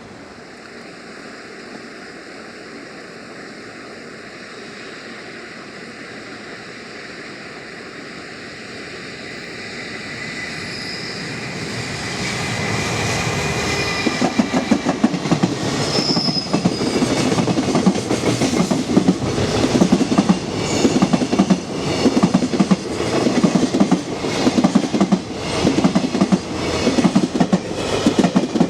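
JR Freight EF210 electric locomotive and its container freight train approaching and passing. The sound builds from a rising hiss, with a faint high whine, into a loud, rapid, regular clickety-clack of the wagons' wheels over the rail joints from about halfway through.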